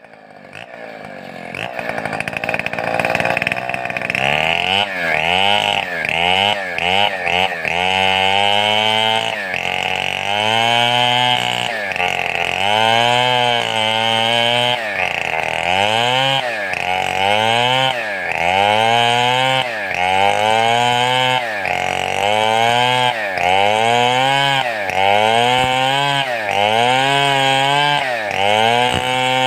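A large two-stroke chainsaw of the Stihl 070 type, its throttle worked in a steady rhythm so the engine revs up and drops back again and again. The revs rise and fall quickly at first, then settle to about one swell every second and a half.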